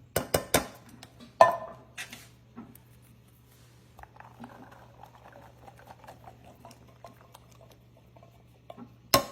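Cans and a utensil clanking against a crock pot as canned black beans are emptied in. There are a few sharp metal clanks in the first second and a half, the loudest one ringing briefly, then soft scraping and patter for several seconds, then more clanks near the end.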